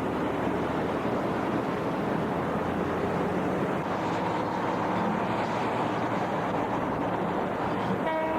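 Steady traffic noise of vehicles on a shared rail-and-road bridge, with a brief pitched tone near the end.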